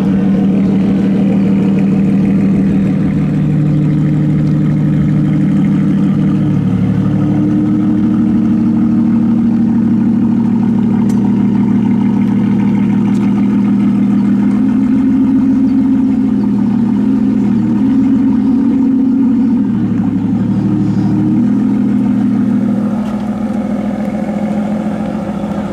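Car engine running for a long stretch, with its low drone shifting up and down in pitch several times, as with changing revs.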